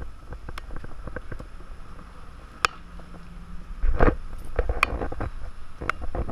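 Storm wind gusting over the microphone, starting about four seconds in, with irregular sharp ticks and taps scattered throughout, typical of the first heavy raindrops striking hard surfaces.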